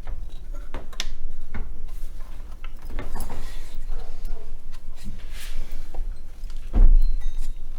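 Tools and metal engine parts clicking and knocking during hand work on the engine's belt-drive accessories, with a heavier thump near the end.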